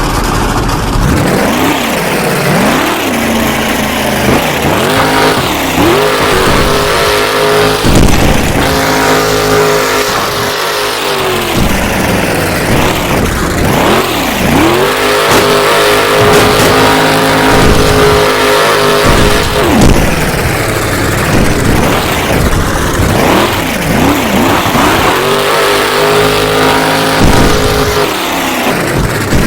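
Avenger monster truck's supercharged V8 engine revving hard again and again during a freestyle run, climbing to high revs and holding there for several seconds at a time before dropping off and surging again.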